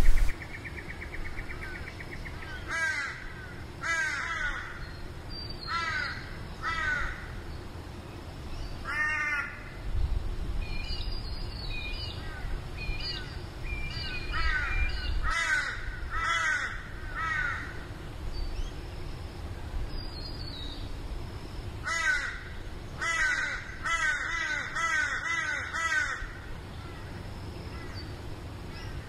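Birds calling: bouts of harsh, cawing calls, each a quick run of short notes, coming every few seconds, with fainter high chirps from a smaller bird in between.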